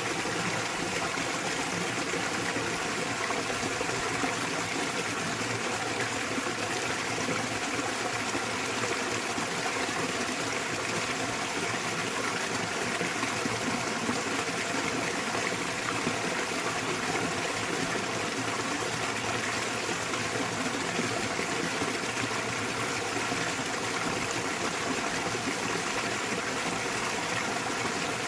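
Small waterfall in a mountain valley stream: a steady, unbroken rush and splash of falling water.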